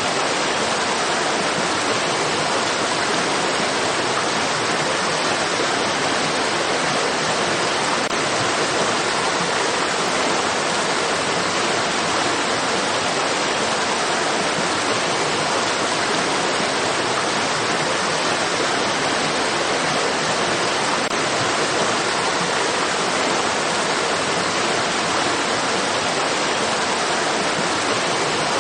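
Steady rushing of flowing water, an even unbroken hiss like a stream or small waterfall.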